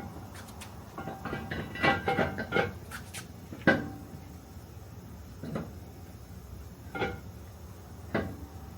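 Metal clanks and knocks from a heavy truck brake drum being handled and test-fitted over the hub: a cluster of clanks, then single sharp knocks every second or so.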